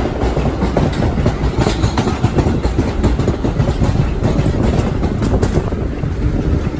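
Vintage R1/9 subway car running, heard from inside: a steady loud rumble with the wheels clattering over rail joints and many small rattles and knocks.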